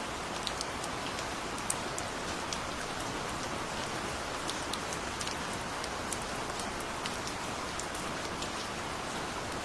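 Steady gentle rain: an even hiss of rainfall with scattered sharp ticks of individual drops striking a surface.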